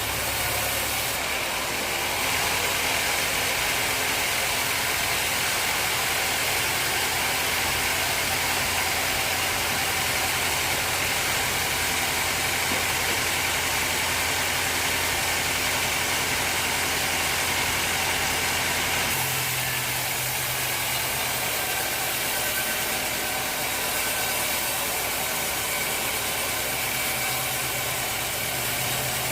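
Sawmill machinery running steadily: a constant machine drone with a hiss over it. The low hum changes abruptly about a second in and again about two-thirds of the way through.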